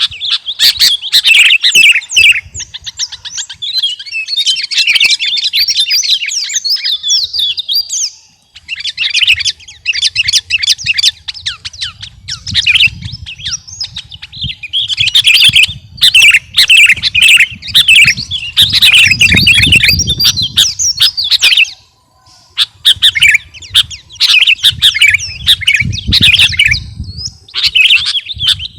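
Sooty-headed bulbul (kutilang) singing loudly and continuously in rapid, chattering phrases, with brief pauses about eight seconds in and again past the twenty-second mark.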